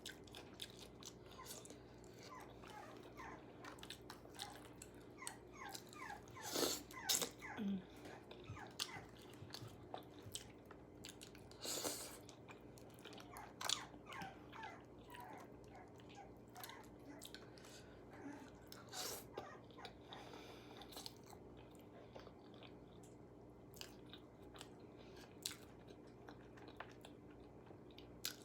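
Close-up chewing and crunching of KFC fried chicken, with louder crisp bites a little after six seconds, around twelve and fourteen seconds, and near nineteen seconds.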